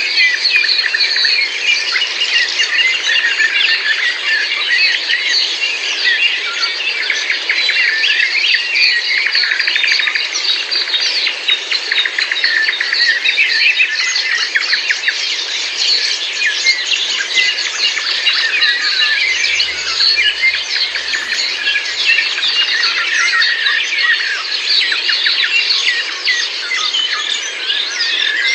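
A dense chorus of many songbirds singing at once, short chirps and trills overlapping without a break.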